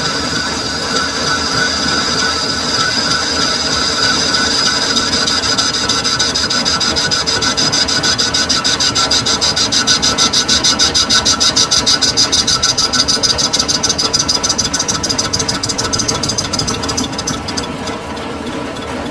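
Metal lathe machining a workpiece: a steady high-pitched whine with a fast, even pulsing of several beats a second that grows in the middle and fades near the end.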